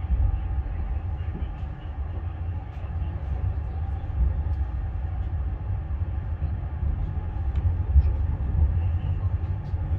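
Low, steady rumble of the Fadak passenger train moving, heard from inside the carriage.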